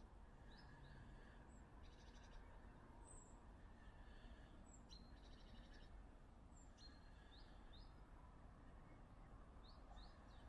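Faint small-bird calls: scattered short high chirps and two brief rapid trills, over a low, steady background hum.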